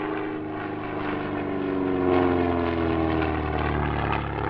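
SIAI-Marchetti SF.260's 260-horsepower Lycoming piston engine and propeller in flight, passing by, its note falling in pitch as it goes past and loudest about halfway through.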